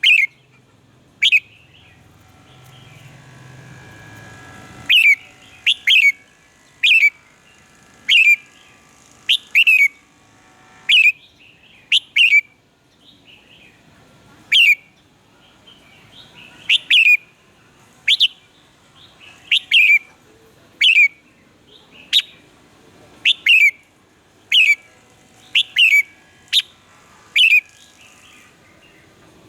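Red-whiskered bulbul calling: short, loud notes that sweep sharply down in pitch, given singly or in quick pairs, about twenty of them at roughly one-second intervals.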